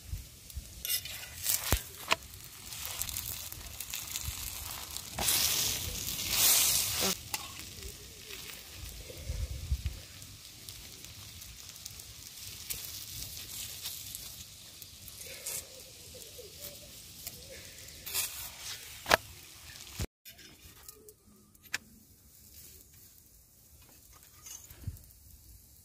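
Chapati frying in oil on a flat iron pan, sizzling, with a metal spoon spreading oil over it and clicking against the pan now and then. The sizzling stops abruptly about twenty seconds in, leaving much quieter outdoor sound.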